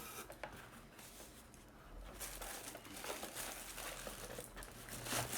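Packaging being handled: crinkling and rustling of plastic wrap with a few light knocks as parts are moved about, louder from about two seconds in.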